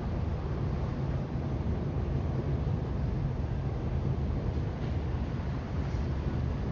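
Steady low outdoor rumble with no distinct events, the level holding even throughout.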